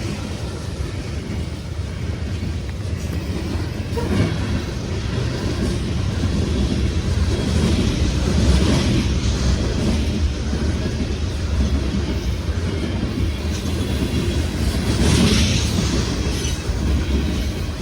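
Loaded sand train of freight cars rolling past, a steady low rumble of wheels on rail with some clacking, swelling a few times as the cars go by.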